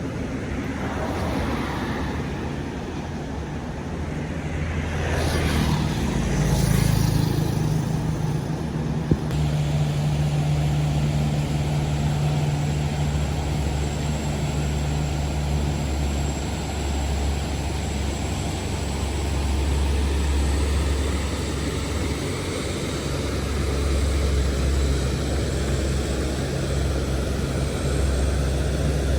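Road traffic on a mountain road: a vehicle passes about six seconds in, its sound sweeping down in pitch. A heavy vehicle's engine then runs with a steady low drone.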